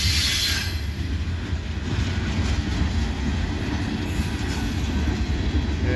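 Freight train cars rolling past close by: a steady low rumble of steel wheels on the rails, with a brief higher rushing noise in the first second.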